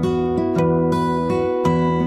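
Background music: acoustic guitar picking notes in a steady rhythm.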